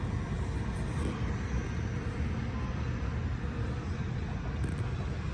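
A steady low rumble from a vehicle, with no clear changes or knocks.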